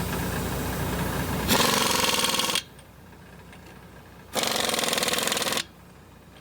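An engine idling, then a Mac impact wrench running lug nuts onto a new truck tire's wheel studs in two rattling bursts of about a second each, a couple of seconds apart.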